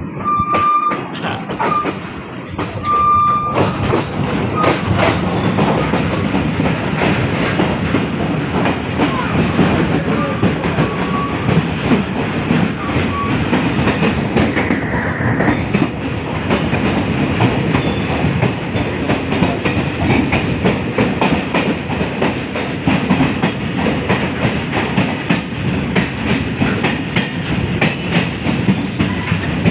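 Train running along the track, with a continuous rattling clatter of wheels and cars. Two short high squeaks sound in the first few seconds.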